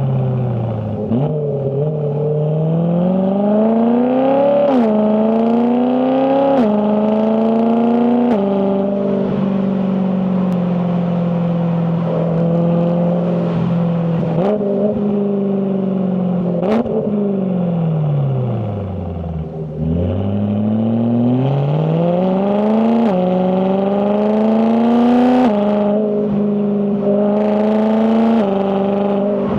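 BMW E92 M3's 4.0-litre S65 V8 exhaust under hard driving, pulling through the gears with quick dual-clutch upshifts, each a sudden drop in pitch, about 5, 7 and 8 seconds in. It holds a steady pitch for a few seconds, falls away to a low note while slowing around 20 seconds in, then climbs again through three more quick upshifts near the end.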